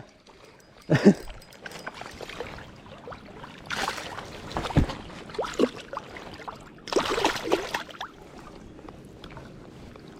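Creek water splashing and sloshing close by, with two longer splashes about four and seven seconds in.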